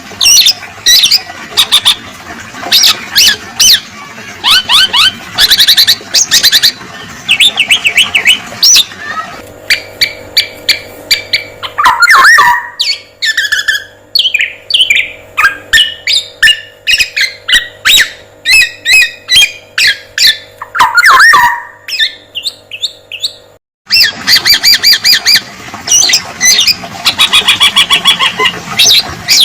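Recorded song of a male black-naped oriole: loud, busy runs of rapid high chattering phrases and harsh squawks. About nine seconds in, the recording changes, with a steady low hum underneath and two loud sweeping whistles. A brief dropout just before the end leads back into the dense chattering.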